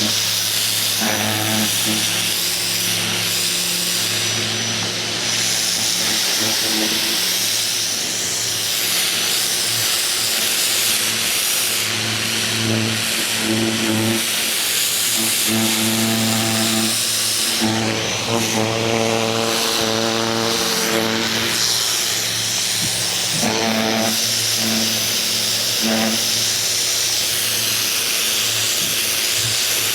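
Ryobi 2000 PSI electric pressure washer spraying: a loud, steady hiss of the high-pressure water jet over a humming motor and pump, whose hum swells and fades several times.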